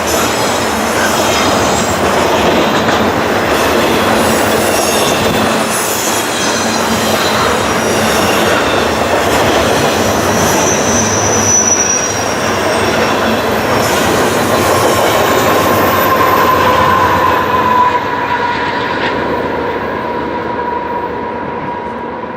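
Canadian Pacific stack train of double-stack container cars rolling past at track speed: a steady rush of steel wheels on rail with long, high squealing tones from the wheels. The noise begins to fall away in the last few seconds.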